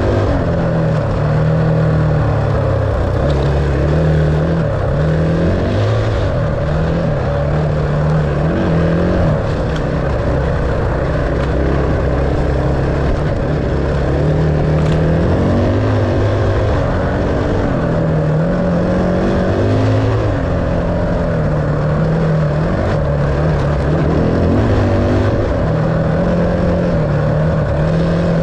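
Enduro dirt bike engine running under riding load, its pitch rising and falling again and again as the throttle opens and closes.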